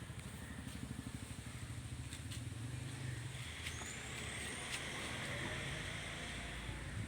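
A low engine running with an even, rhythmic pulse, with a hiss that comes in for about three seconds in the middle and a few faint clicks.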